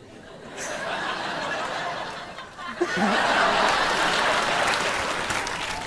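Studio audience applauding and laughing, growing louder about three seconds in.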